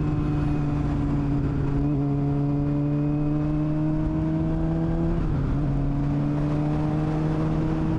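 Suzuki GSX-R 600's inline-four running loud under way through an exhaust with its dB killer removed. The engine note climbs slowly, dips briefly about five seconds in, then climbs again.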